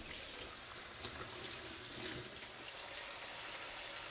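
Pork ribs frying in hot oil in a pan, a steady sizzle that grows louder about three seconds in, with a few light clinks in the first two seconds.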